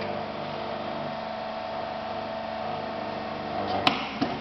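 Electric motor of a hydraulic butt fusion welding machine running with a steady hum, with a single sharp click a little under a second before the end.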